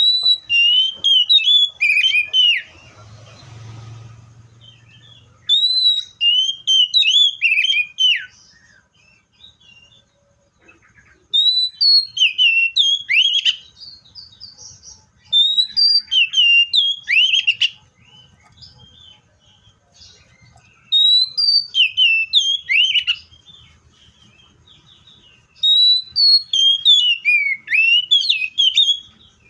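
Seychelles magpie-robin singing: six loud phrases of whistled notes, each two to three seconds long, with sharp downward slurs. The phrases come about every five seconds with short pauses between them.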